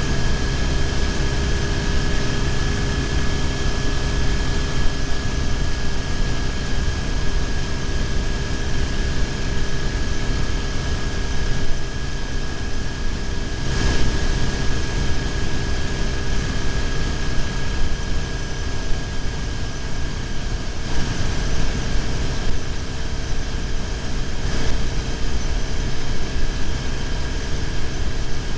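BMW R1150GS motorcycle's boxer-twin engine running steadily at highway speed, heard under heavy wind and road noise on a bike-mounted camera.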